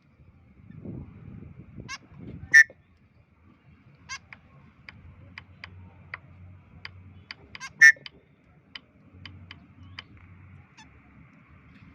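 White-breasted woodswallow giving short, sharp calls: two loud calls, one about two and a half seconds in and one near eight seconds, with a quick run of fainter chirps between them.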